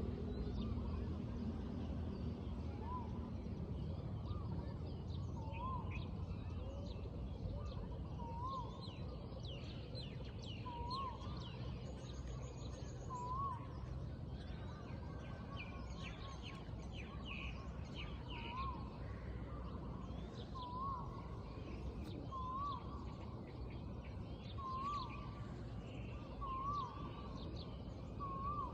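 Morning birdsong: one bird repeats a short, hooked whistled note about every two seconds, about a dozen times, while other birds chirp in quick, higher notes. A steady low background noise runs underneath.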